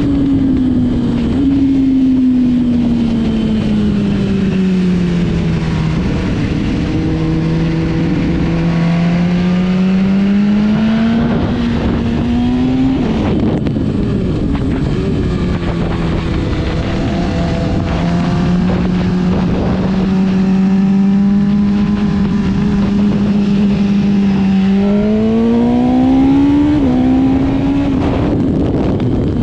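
Motorcycle engine heard on board at speed over wind noise. The revs slowly fall, then climb and drop sharply about 13 seconds in. After a long steady stretch they climb again near the end and drop once more, like gear changes.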